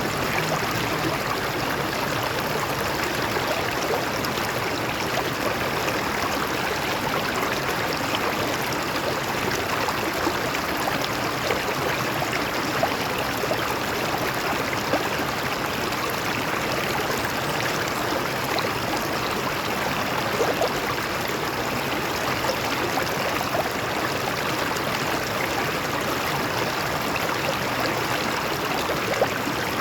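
Stream water flowing and splashing over rocks, a steady rushing babble with small splashes here and there.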